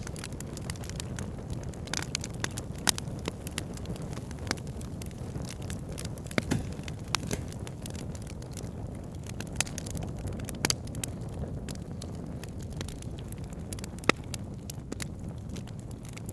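Wood fire burning in a fireplace: a steady low rushing of the flames with sharp irregular crackles and pops, a few louder ones scattered through.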